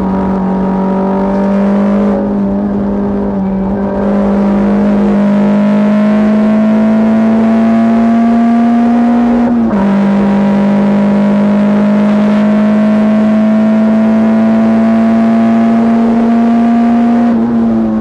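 Škoda Felicia's 1.3 MPI four-cylinder engine heard from inside the cabin, pulling hard with the revs climbing slowly. Its pitch drops sharply about halfway through, as at an upshift, climbs again, and falls right at the end as the throttle comes off.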